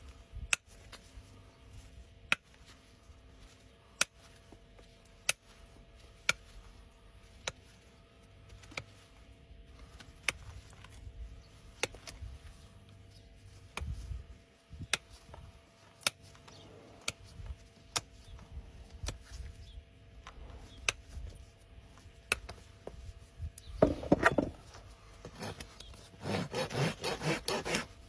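Sharp single clicks about every second and a half, then near the end a hoof rasp scraping across a horse's hoof in a short burst followed by quick repeated filing strokes.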